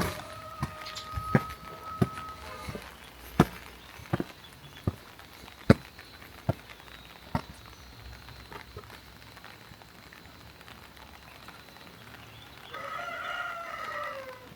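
Long drawn-out farm-animal calls: one held steady for about two and a half seconds at the start, another falling away near the end. Scattered sharp knocks or taps come in between.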